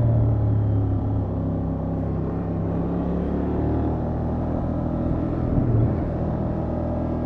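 Honda XL750 Transalp's parallel-twin engine running through the stock exhaust at low, steady revs, its pitch drifting slightly with small throttle changes and a brief swell near the end.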